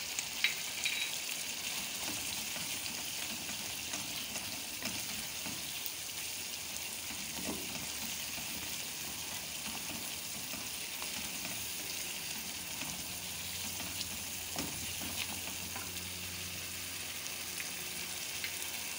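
Mutton curry masala of yogurt, onion and tomato sizzling steadily on high heat in a nonstick karahi while a wooden spoon stirs and scrapes through it, the yogurt's water cooking off as the masala fries.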